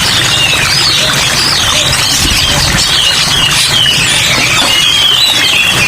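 Many small songbirds chirping and warbling at once, with rapid wavering high calls overlapping over a steady hiss of rain.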